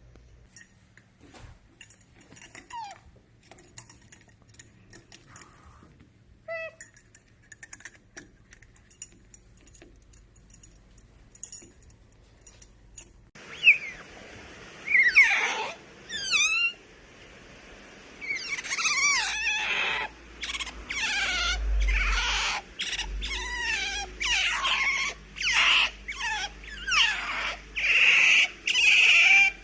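Asian small-clawed otter chirping: faint clicks and a few small squeaks at first, then from about halfway a run of loud high-pitched chirps and squeals, each sliding down in pitch, coming almost without pause near the end.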